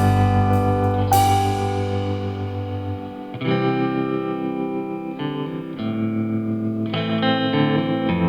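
Music: a guitar played through effects, holding sustained chords that change every second or two, with a stronger note struck about a second in.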